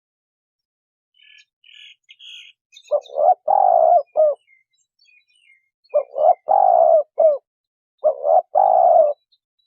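Spotted dove cooing: three phrases a few seconds apart, each a couple of short coos around one longer drawn coo. Faint high chirps of a small bird come before the first phrase.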